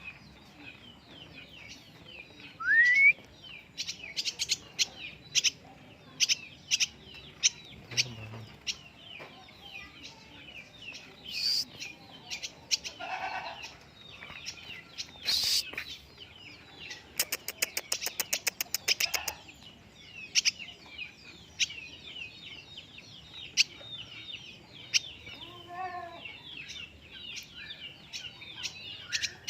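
Swiftlet twittering in rapid, high, scratchy chirps, with a quick run of about ten clicks a second for roughly two seconds past the middle.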